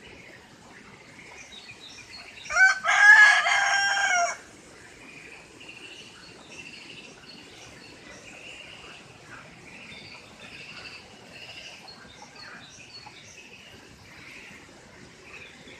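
A rooster crows once, about two and a half seconds in, a loud call lasting under two seconds. Faint chirping of small birds goes on around it.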